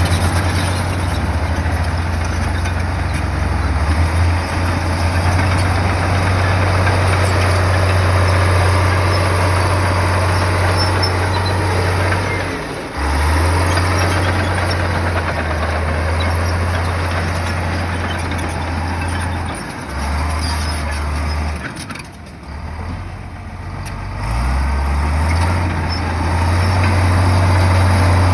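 Heavy diesel engine of earthmoving machinery running under load, a low drone with clatter and noise above it. The engine note changes several times, easing off for a couple of seconds near the end before picking up again.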